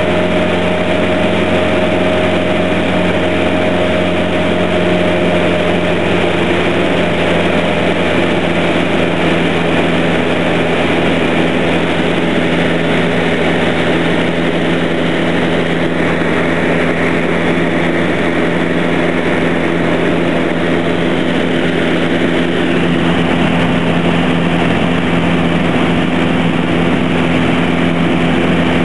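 Light aircraft's piston engine and propeller droning steadily in flight, at an even pitch throughout.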